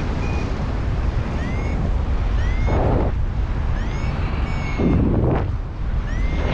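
Strong wind buffeting the microphone in flight under a paraglider, a steady loud rumble with a few stronger gusts. Short, high chirps that bend in pitch repeat irregularly over it.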